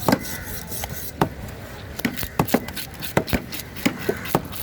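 Knife chopping fish on a wooden cutting block: a run of sharp, irregular knocks, sometimes two or three close together, with scraping between strokes.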